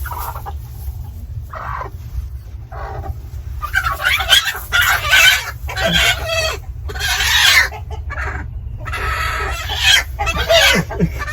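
Broody hen squawking and clucking in agitation, disturbed on her nest of eggs: a few short clucks, then loud harsh squawks again and again from about four seconds in.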